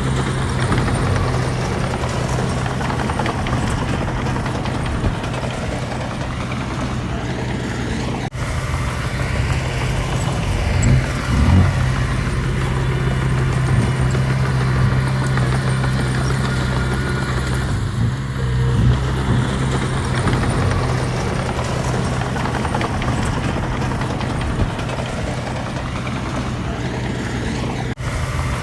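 Diesel engine of heavy earthmoving machinery running steadily under work, with a deep, even hum. It briefly rises a few times.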